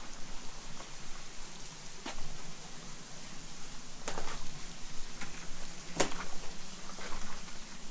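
Steady hiss of a partly frozen waterfall still running, with three sharp clicks about two seconds apart, the last one the loudest.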